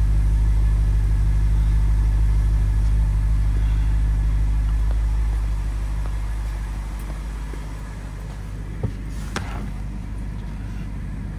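2008 BMW 550i's 4.8-litre V8 idling steadily, heard at the twin exhaust tips and then quieter as the microphone moves away and into the cabin. Near the end come a sharp click and a brief swish.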